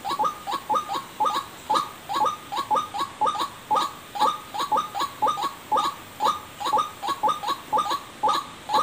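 White-breasted waterhen (ruak-ruak) call played as a bird-trapping lure: a rapid, rhythmic run of short notes, about four a second, repeating without a break.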